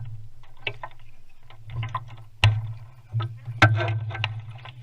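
Sharp knocks and handling clatter in a small fishing boat, two louder knocks about two and a half and three and a half seconds in, over a steady low hum.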